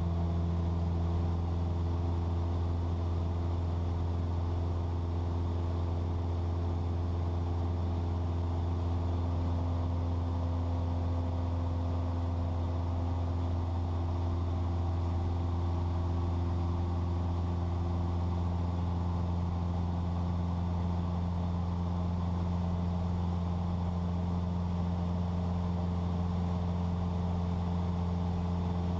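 Cessna 172's piston engine and propeller droning steadily in flight, heard inside the cabin as an even low hum.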